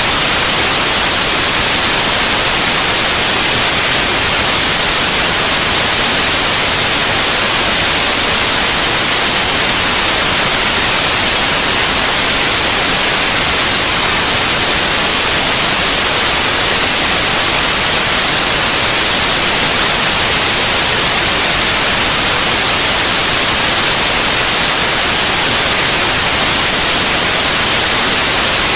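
Steady white noise: an even, unchanging hiss across the whole range, brightest in the high frequencies, played as a sleep aid for babies.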